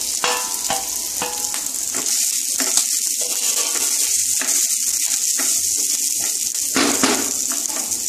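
Oil sizzling steadily in a non-stick kadai as fried potato cubes are scraped in from a steel plate and stirred into frying moong dal with a wooden spatula. The spatula scrapes and clacks against plate and pan in the first couple of seconds, with another scrape near the end.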